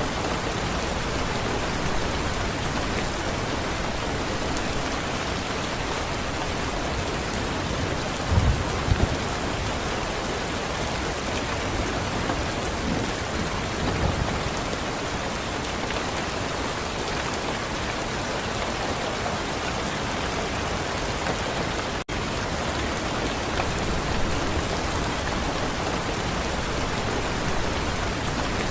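Steady rain falling, with a low rumble of thunder about eight seconds in and a fainter one a few seconds later.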